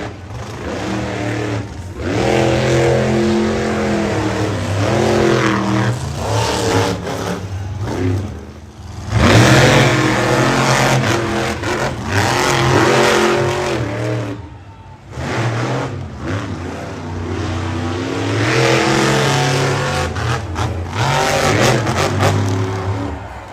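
Monster truck engines revving hard, the pitch rising and falling again and again as the trucks run. The sound comes in several stretches with abrupt breaks between them.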